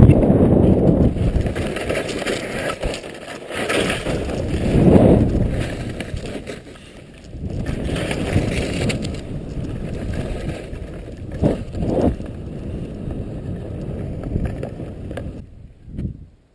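Skis sliding and scraping over snow, with wind buffeting the microphone, the noise swelling and easing as the skier moves. It stops suddenly near the end.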